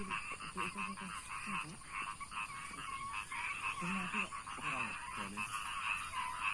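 A dense chorus of rapid, pulsing animal calls that never lets up, with faint voices lower down.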